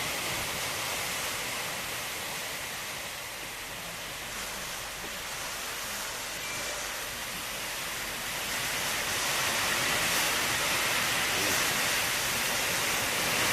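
Typhoon wind and heavy rain: a steady rush of noise with no distinct events, growing louder in the second half.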